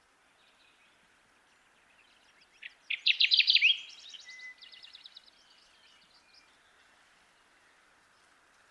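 Kirtland's warbler singing: one loud, quick song of rapidly repeated notes about three seconds in, followed by fainter trailing notes, over steady background noise.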